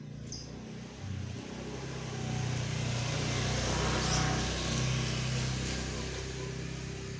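A motor vehicle passing by: its engine hum and road noise build over a couple of seconds, are loudest about four seconds in, then fade away.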